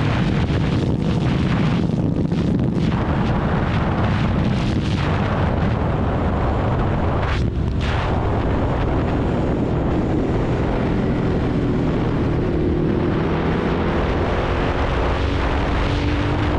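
Ducati Hypermotard's L-twin engine running under way, its exhaust rumbling, with heavy wind buffeting on the microphone. The engine note climbs slowly over the last few seconds.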